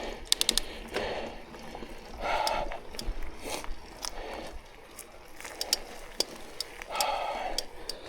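Mountain bike drivetrain clicking and ratcheting while riding: a quick run of four or five clicks near the start, then scattered single clicks. Between them, the rider's hard breaths come and go.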